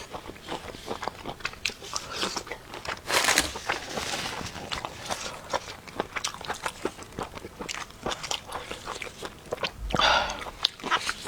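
Close-miked chewing and biting of food: many wet mouth clicks and crunches, with two louder bites about three seconds in and near the end.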